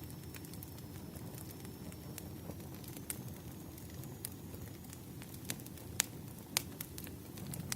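Wood fire burning: a steady low rumble of flames with scattered sharp crackles and pops, the two loudest about six seconds in, half a second apart.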